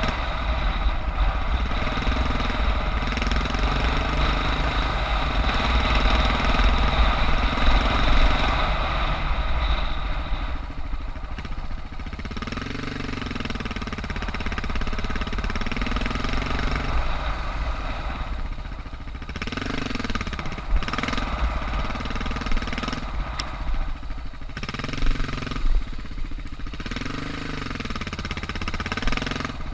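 Suzuki DR650's big single-cylinder four-stroke engine at low revs, its note rising and falling again and again with bursts of throttle. A heavy low rumble runs throughout, and a hiss fades out about a third of the way in.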